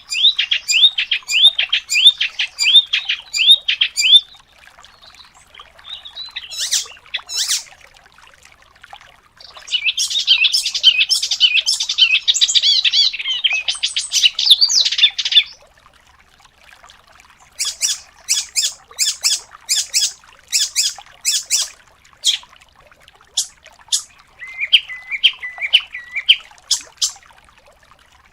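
Songbird singing in fast, rapid-fire phrases: a quick repeated trill at the start, a long dense warbling run in the middle, and a series of sharp repeated notes near the end, with short pauses between the bursts.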